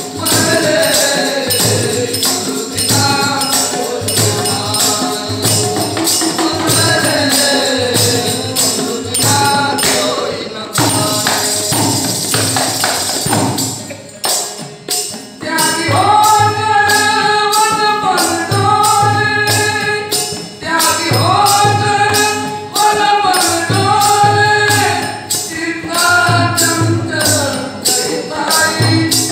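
Devotional bhajan music: a steady jingling percussion beat with a pitched melody line over it, the melody getting stronger about halfway through.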